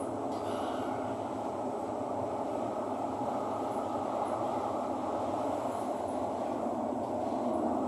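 Steady running noise inside an MRT train carriage moving between stations: an even rumble and hiss of wheels and motors, growing slightly louder near the end.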